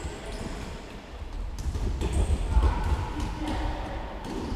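Football match sound: a ball being kicked and thudding, with players' distant shouts, over a low rumble on the microphone.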